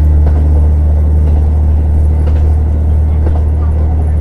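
JR Hokkaido KiHa 150 diesel railcar running, its engine giving a loud, steady low drone. Faint knocks come about once a second.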